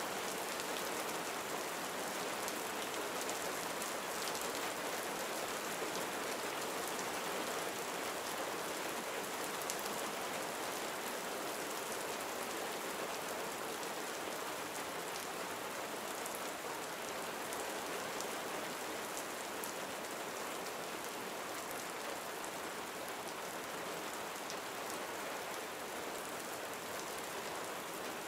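Gentle rain falling steadily, a soft even patter of drops on surfaces with faint individual drop ticks.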